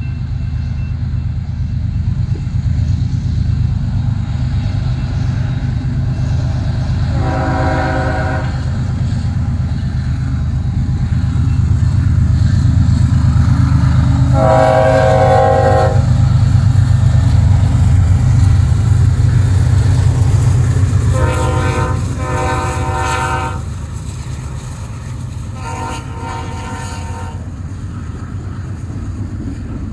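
Two BNSF diesel locomotives hauling a double-stack intermodal freight train rumble past, with the lead unit's air horn sounded in five blasts. The engine noise drops off about two-thirds of the way through, leaving the rolling of the container cars.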